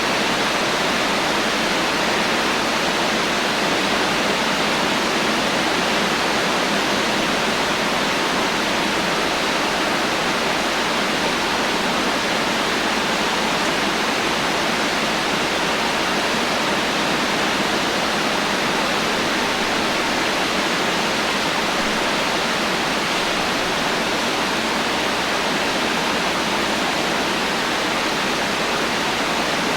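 Heavy rain falling as a steady, dense hiss with no thunder.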